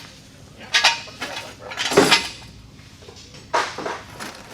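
Clatter and clanks of metal parts and tools being handled, in three short bursts, the loudest about two seconds in.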